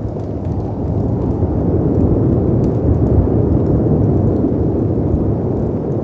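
Storm ambience: a deep roar of wind and sea surf that swells through the middle and eases near the end, with faint crackles of a fireplace on top.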